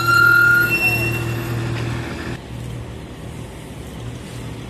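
Porsche 911 GT3 flat-six engine pulling away at low speed, loud at first and fading over about two seconds. After an abrupt drop, the quieter engine of a BMW M6 convertible is heard rolling up slowly.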